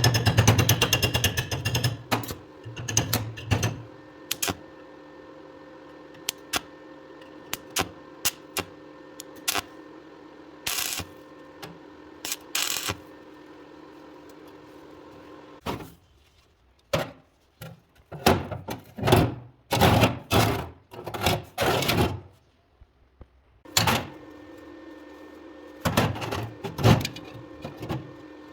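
Steady electrical hum from a workshop device, with scattered sharp clicks, taps and knocks of metal parts being handled. The hum cuts out for several seconds in the middle while the knocking goes on, then comes back.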